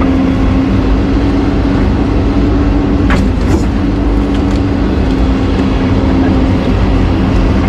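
Excavator's diesel engine running steadily with a constant hum. Two short knocks come about three seconds in.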